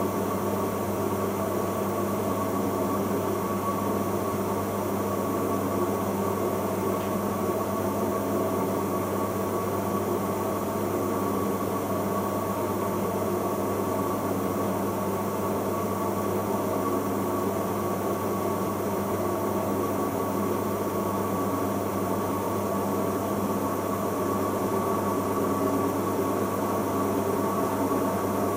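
Bosch Logixx WAS32461GB washing machine on its intermediate spin at 1000 rpm: the drum and motor running at a steady speed, giving an even drone with constant humming tones.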